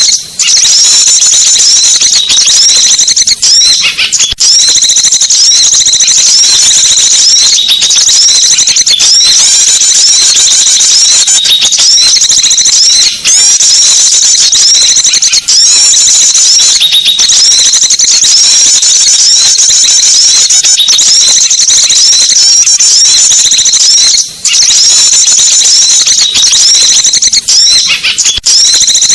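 Small-bird lure call (pikat) recording: a dense, unbroken chatter of high-pitched chirps and short twittering notes from small birds, loud and steady, with a few very brief breaks.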